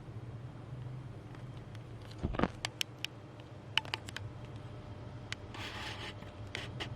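Small 28-inch mini ceiling fan motor running with a steady low hum, its blades out of alignment so the fan wobbles. Scattered sharp clicks sound throughout, with a louder knock a little over two seconds in.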